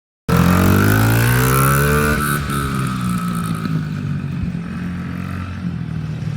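Motorcycle engine revving up, its pitch rising for about two seconds. It then drops back to a lower, steady running sound.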